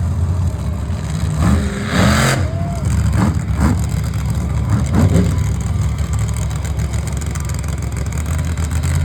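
Monster truck engines running loudly in a low, steady rumble, with a few short pitch rises in the first half.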